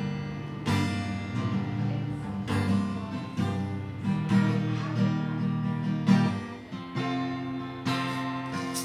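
Acoustic guitar strummed in a steady rhythm, chords struck about once a second and left ringing.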